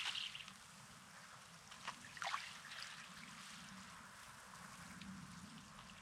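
Small sea waves lapping and washing over a rocky, sandy shore. There is a louder wash right at the start and another about two seconds in, then a softer steady wash.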